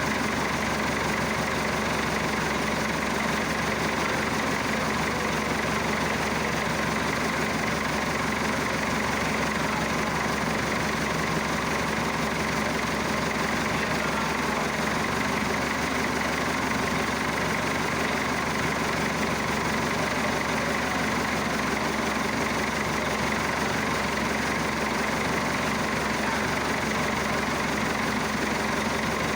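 Massey Ferguson Super 90 diesel tractor engine idling steadily.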